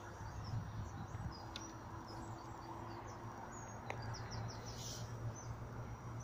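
Birds chirping in short high notes, scattered through, with a quick run of four or five chirps about four seconds in, over a steady low rumble of outdoor background noise.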